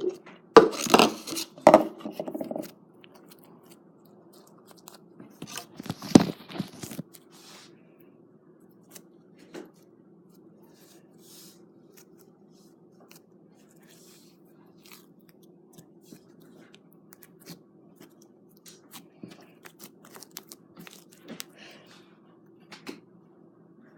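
Slime being squeezed and pressed by hand, giving two bursts of crackling and popping, the first near the start and a shorter one about six seconds in, then faint scattered sticky clicks over a steady low hum.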